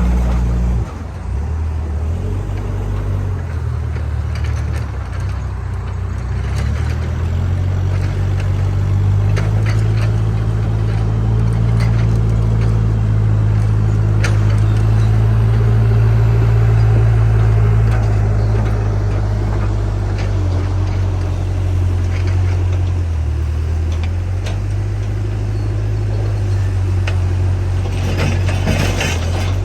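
Backhoe loader's diesel engine running with a deep steady note that grows stronger for a stretch in the middle and then eases back. Scattered clanks and knocks sound over it, with a burst of clatter near the end.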